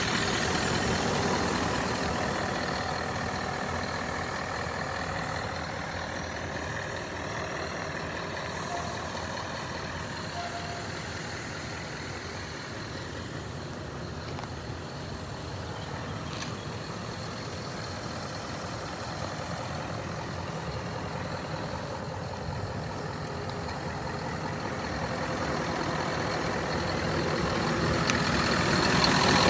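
Scania R560 truck's V8 diesel engine idling steadily, growing louder again near the end.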